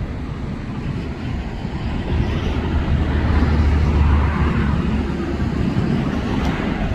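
Boeing 737 jet engines at takeoff power: a broad roar with a deep rumble that swells to its loudest about halfway through, then eases slightly.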